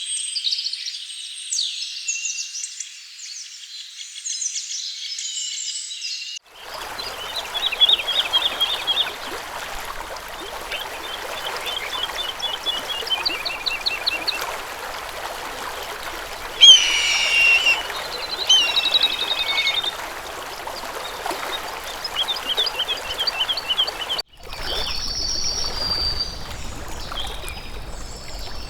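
Wild birds singing and calling, with repeated trilled notes and one loud call about two-thirds of the way through, over the steady rush of running water. The sound changes abruptly about six seconds in and again near the end.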